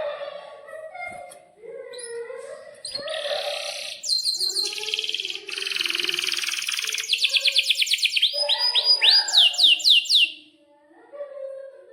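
Domestic canary singing a long rolling song: mixed phrases, then a fast buzzy trill, then series of quick repeated downward-sweeping notes that slow toward the end and stop about ten seconds in. Softer, lower sounds run underneath the song.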